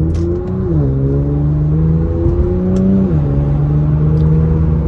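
Straight-piped Infiniti Q50 exhaust under hard acceleration: a loud engine note that climbs and drops abruptly at two upshifts, about a second in and about three seconds in.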